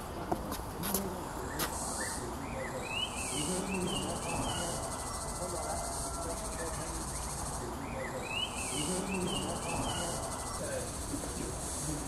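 A bird gives a quick string of chirping notes twice, about three and eight seconds in, over a steady high hiss of insects.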